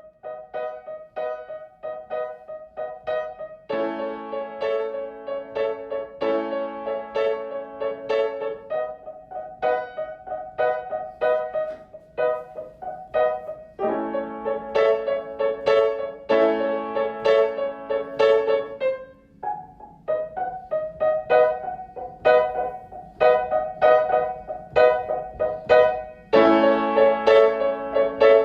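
Solo piano playing a slow, gentle piece of evenly paced single notes, about two a second. Fuller chords with lower notes join in several times.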